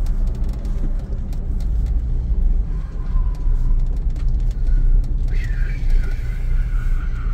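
A car driving: a steady low rumble of engine and road noise. A thin high tone comes in about five seconds in.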